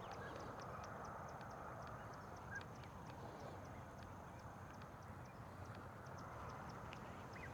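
Faint outdoor background: a low, even noise with a thin steady high whine, many faint scattered high ticks and a few soft distant calls.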